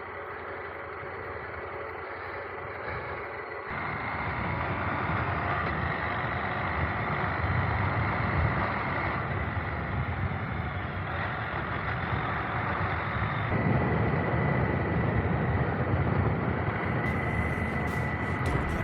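Adventure motorcycle riding along with its engine running steadily, under road and wind noise. The sound gets louder and fuller about four seconds in.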